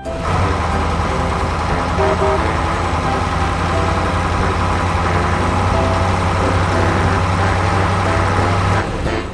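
Dump truck engine running steadily with a low hum, and a short horn toot about two seconds in.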